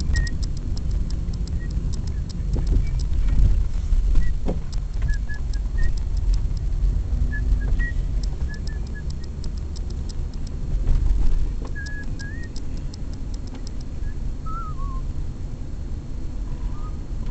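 Outdoor ambience: a steady low rumble with short bird chirps scattered through it and stretches of fast, high ticking, swelling briefly twice.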